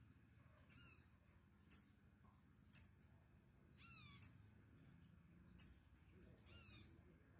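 A small bird giving sharp, high chirps about once a second, three of them run into a quick series of falling notes.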